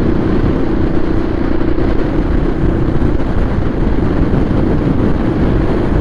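Royal Enfield Classic 350 single-cylinder motorcycle running at a steady cruising speed, its engine hum mixed with heavy wind noise on the microphone.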